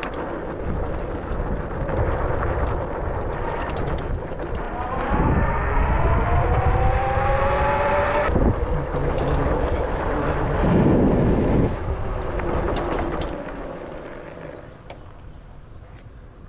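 Wind rushing over the microphone on a moving Wired Freedom e-bike. About five seconds in, the electric motor's whine rises in pitch as it accelerates, then cuts off suddenly about three seconds later. The wind noise dies down near the end as the bike slows.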